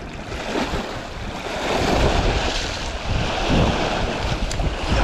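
Strong gusty wind buffeting the microphone, with choppy lake water churning against the bank underneath. The rumble swells and eases with the gusts.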